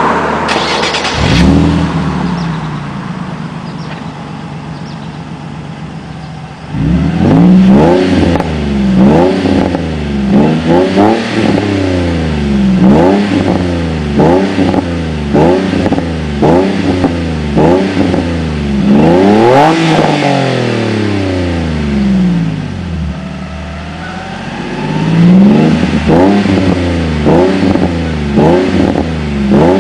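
Nissan 350Z's 3.5-litre V6 heard through its exhaust: a brief flare about a second in, then a steady idle, then from about seven seconds in a long series of quick free revs, each rising and falling back to idle about once a second.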